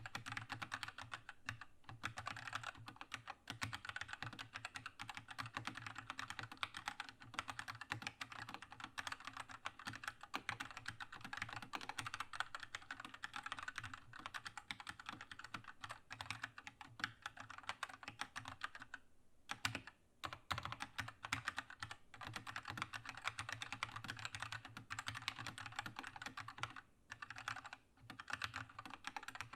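Keychron K2 mechanical keyboard with red linear switches being typed on steadily, a fast run of clacking keystrokes with a couple of brief pauses, one about two-thirds of the way through and another near the end.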